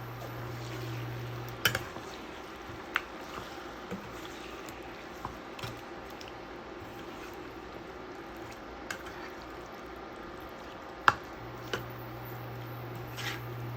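Marinated chicken pieces being stirred in oil in a pot with a spoon: a wet, squishy mixing sound, with a few sharp clinks of the spoon against the pot, the loudest about 11 seconds in.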